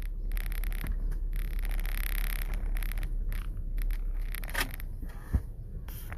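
Rustling and scraping handling noise inside a car, over the steady low rumble of the car, with one sharp thump about five seconds in.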